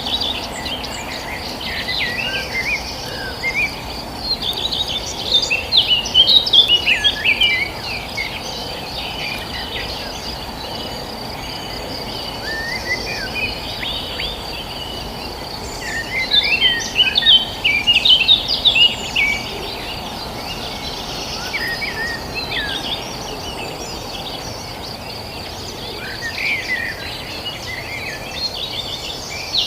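Birds chirping in bursts of quick, high calls, busiest about a third and two thirds of the way in, over a steady high insect drone like crickets and a low background hiss.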